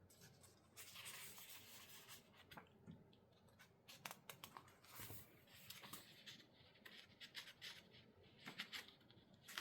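Near silence: faint room tone with soft scratching and scattered light ticks, like small handling noises.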